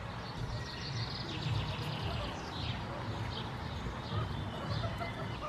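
Small birds chirping, with a fast trill of short high notes, about ten a second, starting just under a second in, and scattered single chirps after it, over a low steady rumble.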